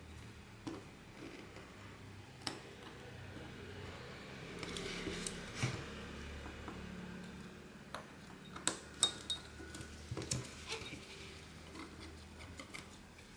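Small metal repair tools clicking and tapping against a phone's parts, in scattered light clicks that bunch together in a quick run past the middle, over a faint steady hum.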